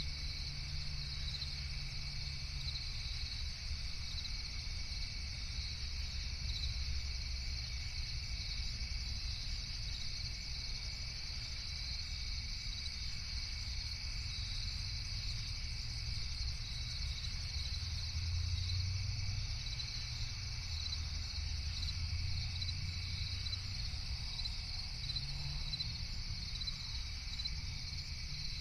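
Night insect chorus, a steady high-pitched chirring, over a low steady rumble underneath.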